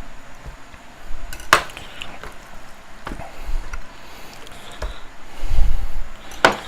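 Kitchen knife knocking and chopping on a cutting board while a raw chicken is cut apart at the joints: a few sharp knocks spaced a second or two apart, with a duller thudding near the end.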